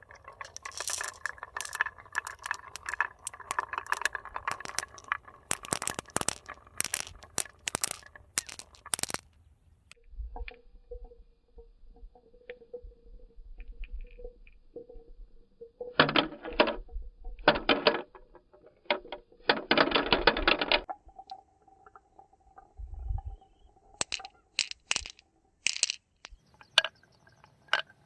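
Rattling and clinking of small hard parts: a dense run of clatter for the first nine seconds, then a few separate bursts over a faint steady hum.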